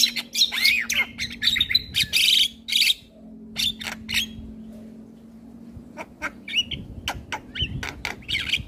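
Male Javan myna singing a busy, varied song of chirps, sharp clicking notes and gliding whistles, thinning to a few notes in a lull partway through before the rapid calls start again.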